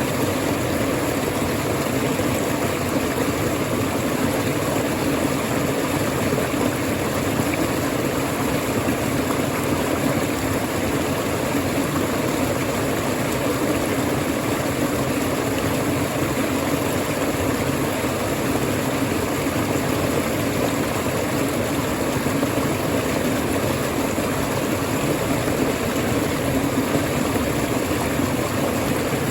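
Waterfall: water falling and rushing in a steady, unbroken roar of noise, strongest in the low-middle range.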